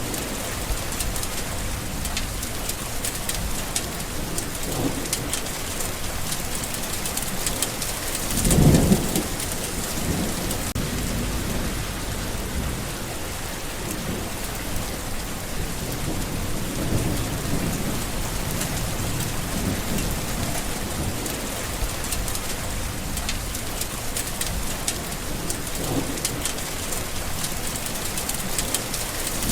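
Steady rain falling. There is a short, low rumble of thunder about nine seconds in, and another just at the end.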